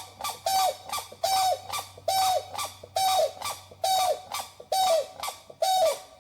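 A bird calling in a steady series of about eight short, harsh calls, roughly one every three-quarters of a second, each held at one pitch and dropping at the end; the calls stop just before the end.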